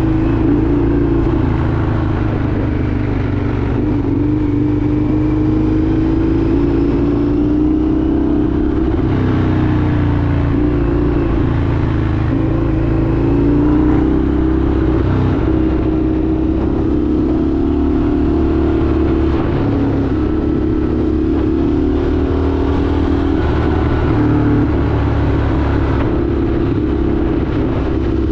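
Indian FTR 1200's V-twin engine running steadily while riding, its note wavering gently up and down with the throttle.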